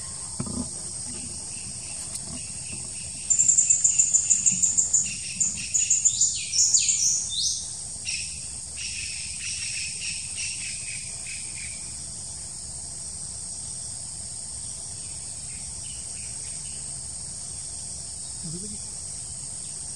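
A steady high-pitched drone of insects, with birds calling over it: about three seconds in, a fast run of loud shrill notes, then several downward-sweeping notes, softening and dying away by about twelve seconds in.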